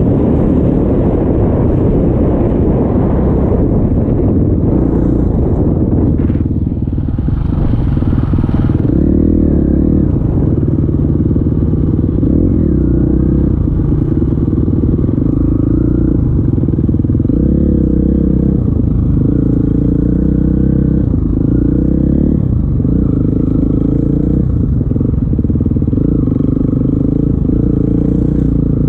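KTM 350 XC-F dirt bike's single-cylinder four-stroke engine running under load. Its pitch rises and falls every second or two as the throttle is opened and closed. Wind rushes over the microphone in the first few seconds.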